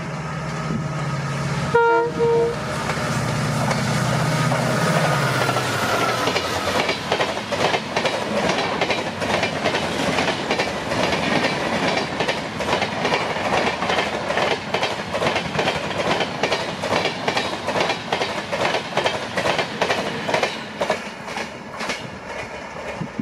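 A WDP4D diesel locomotive, with its EMD two-stroke engine running, passes at speed and gives one short horn blast about two seconds in. Once the locomotive has gone by, its coaches clatter past with rapid rhythmic wheel clicks over the rail joints, fading near the end.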